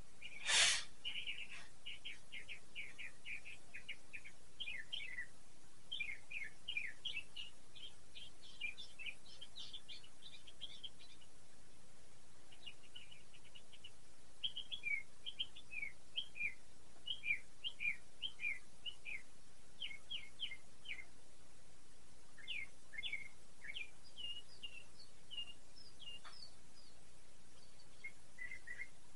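A small bird chirping over and over: quick runs of short, high chirps, many sliding down in pitch, broken by brief pauses. A single sharp knock about half a second in is the loudest sound.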